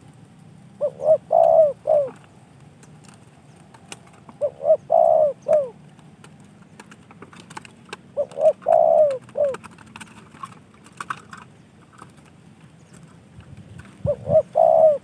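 Spotted dove (tekukur) cooing: four phrases of several notes each, about every three to four seconds, with a longer gap before the last.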